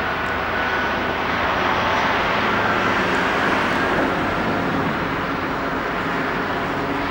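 Diesel train engine running with a steady, loud roar.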